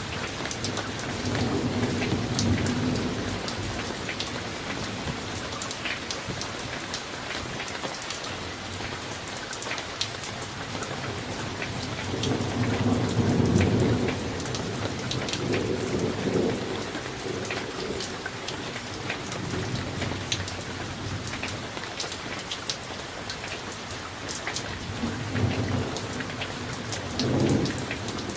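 Summer thunderstorm: steady rain with many separate drops ticking close by, and rolling thunder rumbling low three times, near the start, longest and loudest in the middle, and again near the end.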